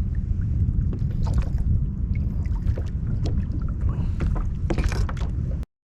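Water sloshing and small knocks against a fishing kayak over a steady low rumble, with scattered light clicks. It all cuts off abruptly just before the end.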